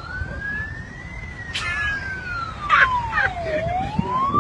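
Police siren wailing, rising slowly in pitch, falling over about two seconds, then rising again. A couple of short sharp sounds come in around the middle.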